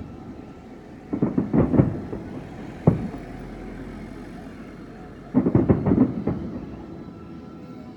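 Aerial fireworks bursting: a quick cluster of bangs about a second in, one sharp single bang near three seconds, then another rapid cluster of bangs just past five seconds.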